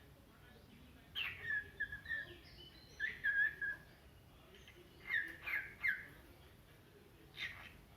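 Cockatiel calling in short bursts of chirps and whistled notes: a run of calls about a second in, another around three seconds, three quick falling calls between five and six seconds, and one more near the end.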